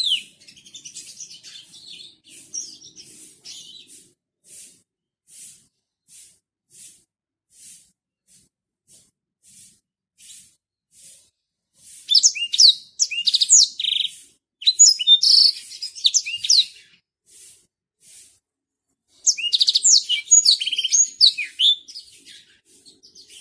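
Black-throated canary (blackthroat) singing. First comes a string of single short chirps, spaced about two-thirds of a second apart. Then, about halfway through and again near the end, it breaks into bursts of quick twittering song with trills and sweeping notes.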